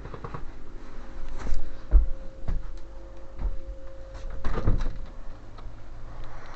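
Irregular knocks and clicks of things being handled, with a louder cluster of knocks a little past the middle, over a faint steady hum.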